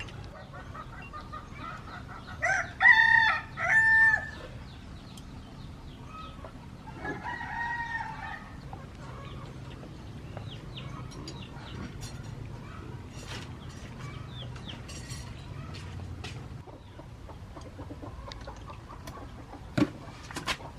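A rooster crowing, a loud call in several parts about three seconds in, then a fainter crow a few seconds later, with scattered small clicks in between.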